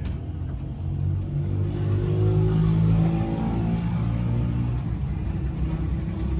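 Toyota 3Y four-cylinder petrol engine running while its distributor timing is set. It revs up a little about a second and a half in, then eases back to a steady run.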